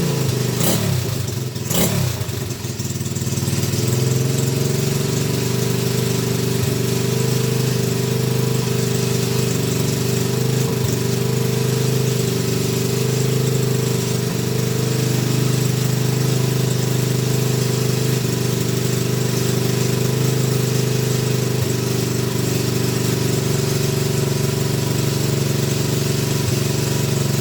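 Barn-find pitbike engine running steadily at idle after standing for years, with a brief dip and rise in revs about a second in.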